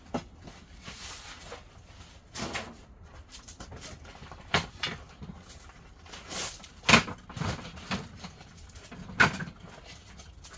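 A series of irregular knocks, clatters and rustles, as of things being handled and moved about, with two sharper knocks in the second half.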